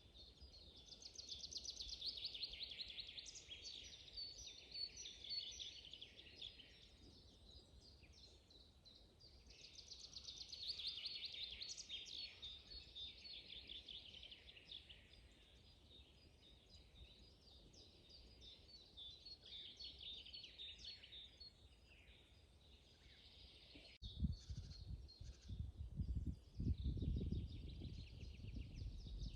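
Songbirds singing in a spring forest, repeated phrases of rapid trills that come and go every few seconds. From near the end a low rumble joins in and becomes the loudest sound.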